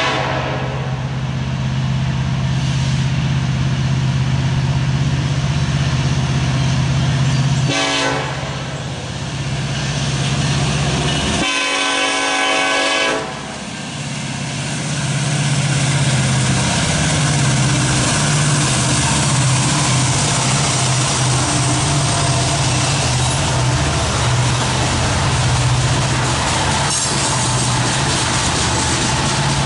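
BNSF freight train approaching and passing, led by diesel locomotives: the air horn sounds a blast that ends about a second in, a brief blast around eight seconds and a longer blast around twelve seconds, over the steady drone of the locomotive engines. Toward the end, coal hopper cars roll past with wheel clatter.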